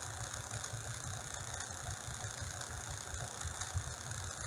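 Steady low mechanical rumble, like a motor running, with a constant hiss over it.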